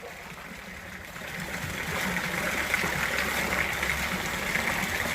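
Steady rush of flowing water from Bad Gastein's mountain stream or waterfall, fading in over the first two seconds and then holding steady.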